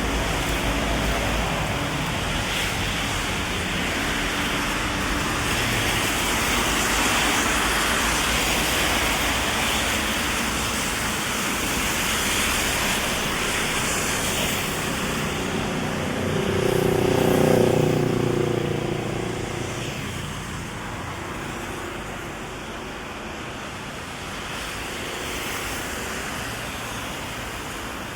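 Heavy rain hissing steadily over city street traffic on wet road. A vehicle passes close by about seventeen seconds in, its engine and tyres the loudest sound, and then things settle back to steady rain.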